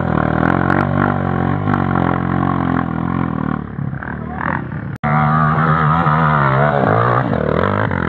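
Off-road motorcycle engine revving up and down as it works along the trail. It cuts off abruptly about five seconds in, and harder revving follows, its pitch rising and falling.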